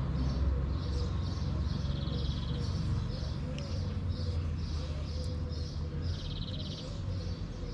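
Small birds chirping over and over, about two short high chirps a second with a couple of brief trills, over a steady low rumble.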